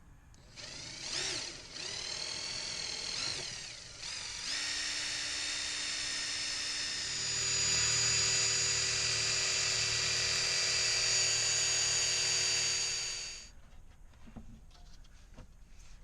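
Ratchet-driven fluid transfer pump turned by a power tool's motor while being primed with clean new gear oil: a whine that starts about half a second in and dips and rises in pitch for the first few seconds. It then runs steadily, gets louder about seven seconds in, and stops suddenly near the end.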